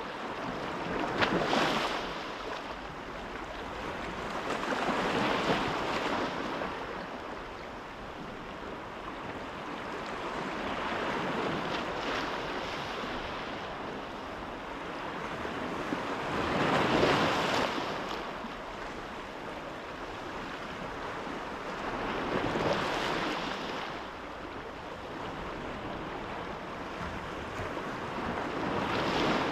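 Sea waves breaking and washing in, each one swelling and fading about every five or six seconds over a steady rush of wind.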